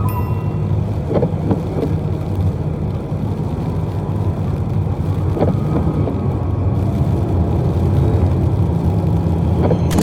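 Steady low rumble of motor vehicle traffic on a road, with a few faint ticks over it.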